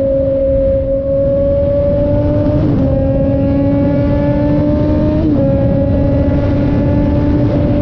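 2006 Suzuki GSX-R600's inline-four engine through a Coffman's aftermarket exhaust, pulling up through the gears: the pitch climbs steadily, drops briefly at two upshifts about three and five seconds in, then eases off near the end. Low rush of wind under the engine note.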